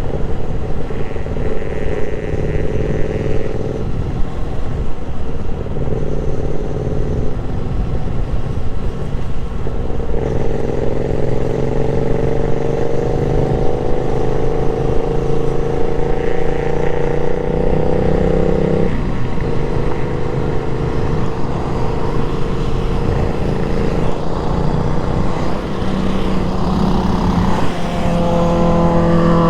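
Motorcycle engine running under way, with rushing wind noise on the microphone. The engine note climbs steadily through one gear for several seconds in the middle, drops suddenly at a gear change, and starts climbing again near the end.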